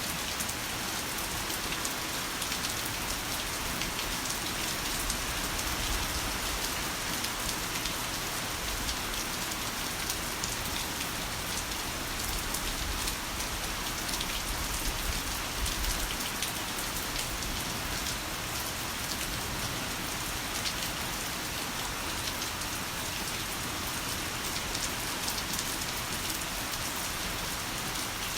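Heavy rain falling steadily, a dense hiss of drops on surfaces. A low rumble swells underneath from about five to sixteen seconds in.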